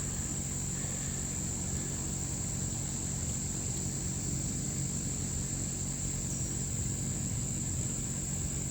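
Crickets trilling in one continuous high, unbroken tone over a low steady hum.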